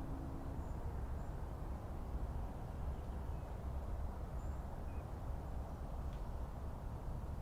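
Forest ambience: a steady low rumble with a few faint, short bird chirps scattered through it.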